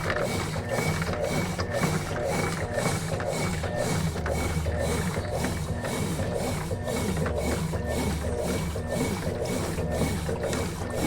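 Consul Facilite 11 kg (CWG11) top-load washing machine at work in its wash cycle, the drum churning the laundry in a regular rhythm of about two to three strokes a second. A low motor hum comes up about four seconds in.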